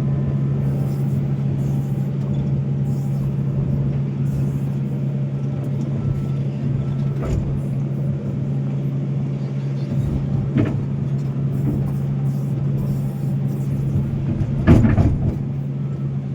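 Volvo excavator's diesel engine running at a steady drone while it works, with three short clanks, the loudest near the end.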